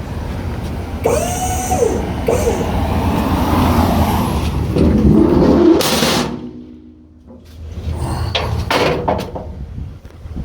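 Box-truck hydraulic liftgate being lowered: a steady mechanical hum with a short squeal about a second in. The hum stops abruptly about six seconds in, followed by several metallic clanks as the platform settles.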